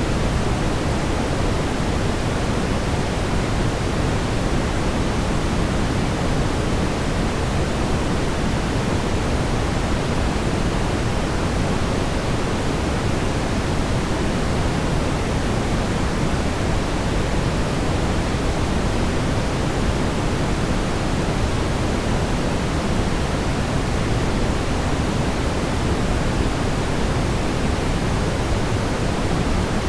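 Steady brown noise: an even, deep rumbling hiss, strongest in the low end and falling off toward the highs, without change.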